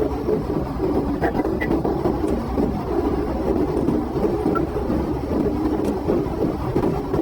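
Police patrol car driving flat out at highway speed: a steady rush of engine and road noise with no change in pace.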